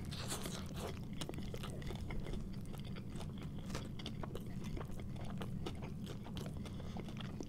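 A person biting into and chewing a mouthful of a homemade bacon cheeseburger, with many small mouth clicks throughout.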